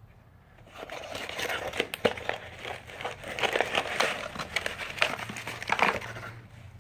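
Packaging crinkling as it is handled, starting about a second in and stopping near the end, with a few sharp clicks and crackles along the way.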